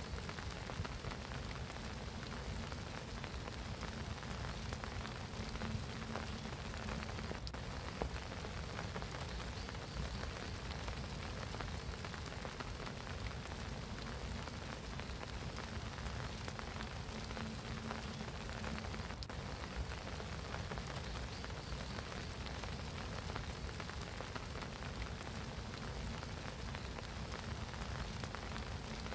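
Steady spring rain falling on a pond's surface, an even patter of drops.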